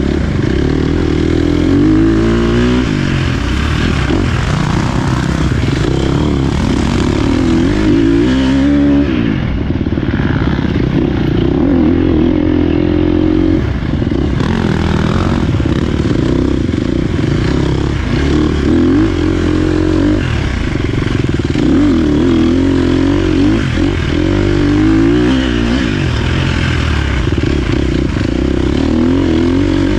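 Dirt bike engine running hard through the whole stretch, its pitch rising and falling again and again with the throttle and gear changes, with sharper revs about two, nine and twenty-five seconds in.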